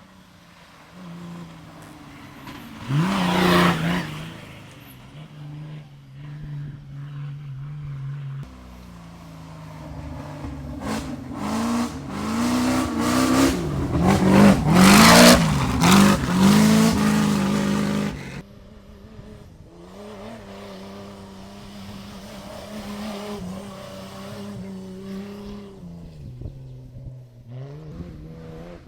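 Cross-country rally cars racing past, engines revving up and down with each pass. The loudest passes come about halfway through, and the sound changes abruptly twice where the shots change.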